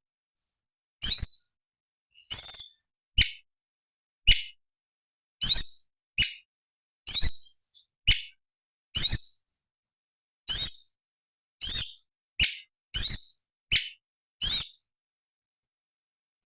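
Cucak cungkok songbird calling: a string of short, sharp, high-pitched calls, each falling quickly in pitch, about one a second with silent gaps between.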